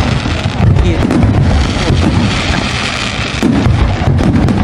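Fireworks going off in a rapid, continuous barrage of bangs and crackles over a steady low rumble.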